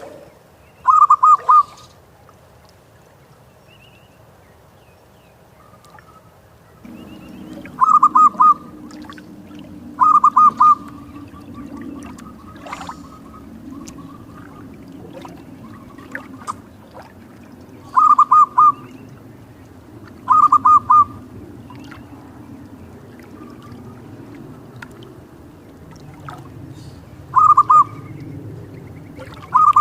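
Zebra dove (perkutut) cooing: seven short, loud trilled phrases of rapid notes, mostly coming in pairs a couple of seconds apart. Under them runs a steady low rumble that grows louder about seven seconds in.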